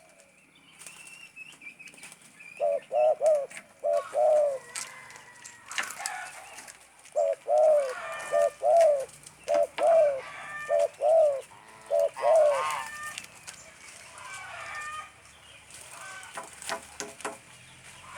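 Spotted dove cooing in the stuttering 'gagap' style that dove keepers prize: repeated low coo phrases with notes broken into quick doubled and tripled stutters. A short bout comes about three seconds in, then a longer run of phrases from about seven to thirteen seconds in.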